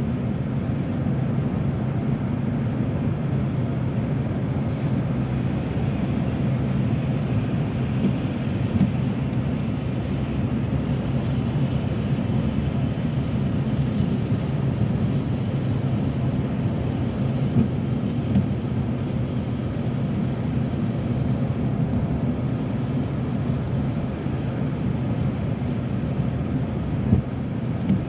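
Steady drone of a car being driven, heard inside the cabin: engine and tyre noise with no change in pace.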